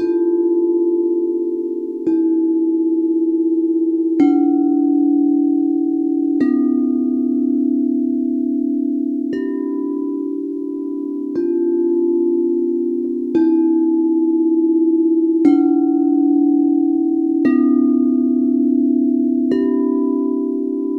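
Singing bowls struck one after another about every two seconds, ten strikes in all, each bringing in a different note. Each note keeps ringing under the next, so the tones overlap in a continuous, steady hum.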